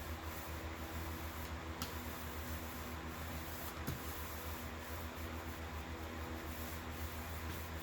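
Resin-wet fiberglass cloth being worked back and forth with a laminating roller to press out trapped air: a soft, steady squishy rubbing. A steady low hum runs underneath.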